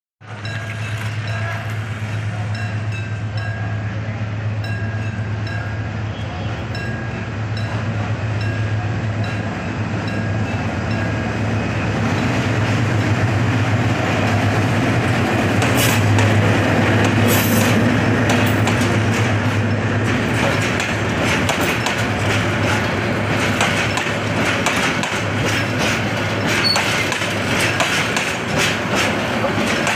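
Diesel locomotive engine humming steadily as it approaches and passes, followed by passenger coaches rolling by. From about halfway the train grows louder and the wheels click over the rail joints.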